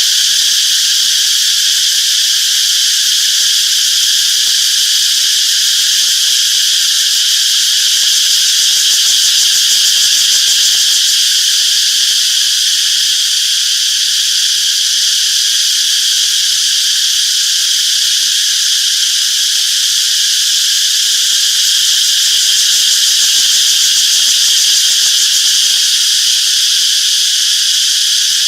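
Chorus of cicadas making a steady, unbroken high-pitched buzzing drone.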